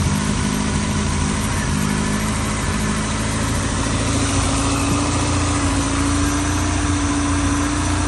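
1983 Ford Escort RS 1600i's fuel-injected 1.6-litre CVH four-cylinder engine idling steadily, freshly started after years in storage. The idle creeps up slightly about halfway through, then holds.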